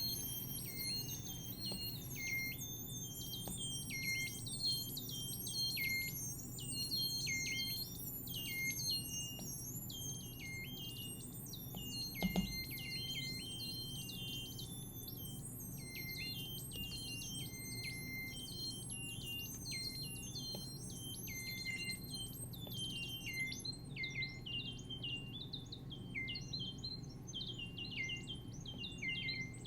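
Synthesizer playing a dense stream of short, high chirps that drop in pitch, like electronic birdsong, over a steady low hum. There is one brief low thump about twelve seconds in.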